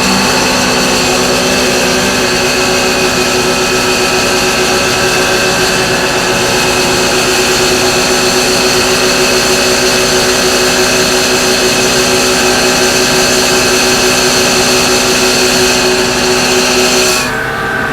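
Blower on a pneumatic dry bulk trailer running steadily, a loud whine made of several held tones, as it builds air pressure in the tank before the flour is unloaded. Near the end the sound suddenly drops to a quieter hum with different tones.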